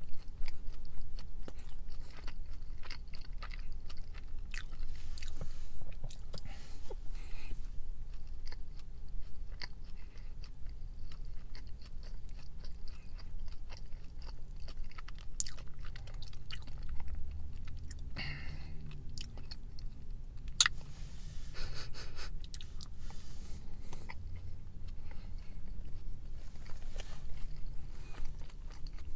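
Close-up chewing of a soft Nature's Bakery fig bar: wet mouth sounds with many small irregular clicks as the bar is bitten and chewed.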